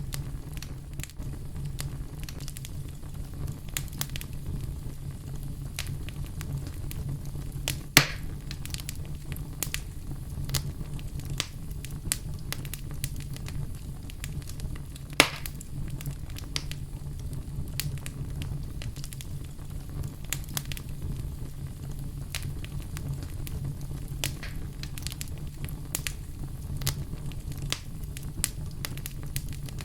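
Wood fire burning in a fireplace: a steady low rumble of flame with frequent small crackles, and two louder pops about a quarter and half way through.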